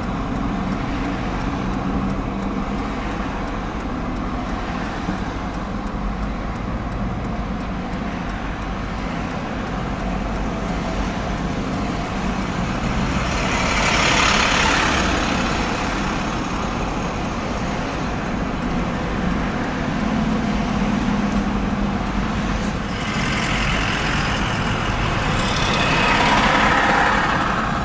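Heavy vehicle engines running steadily in a low rumble, with traffic passing on the interstate; two louder swells of passing-vehicle noise, one about halfway through and one near the end.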